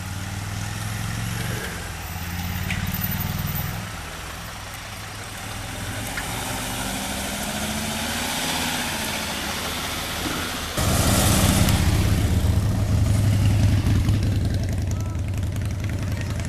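Motor vehicle engine running steadily at idle, with a low hum; about two-thirds of the way through it abruptly becomes louder and fuller.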